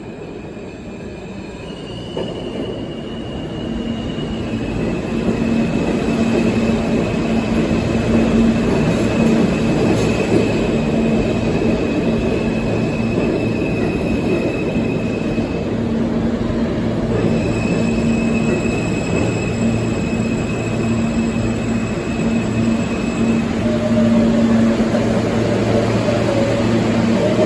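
R160 subway train running in the station, its sound growing louder over the first few seconds and then holding steady. A high steady whine steps in pitch a couple of times, drops out briefly in the middle, and runs over a low hum.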